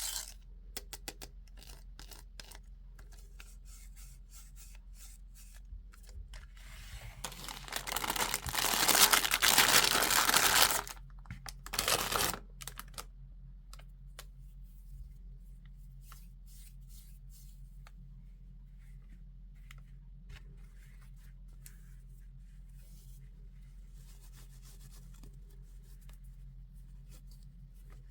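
Toy packaging being torn open by hand: a long loud tear lasting a few seconds, starting about seven seconds in, then a second short tear. Scattered small clicks and taps of handled plastic and cardboard come before and after.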